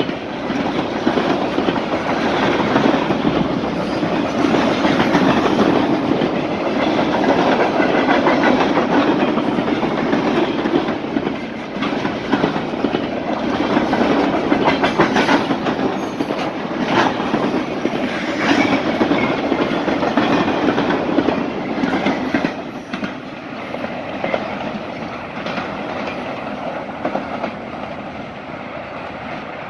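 Freight train cars rolling past with wheels clacking over the rail joints and a few sharp clicks in the middle. The sound fades over the last several seconds.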